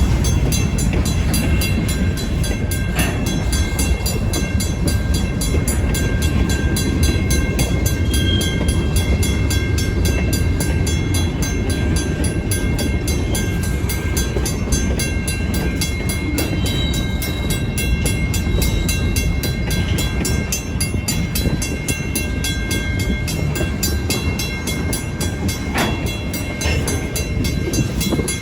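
First-generation WCH mechanical crossing bell ringing in fast, even strokes over the steady low rumble of freight cars rolling through the crossing, with a sharp clank about three seconds in and another near the end.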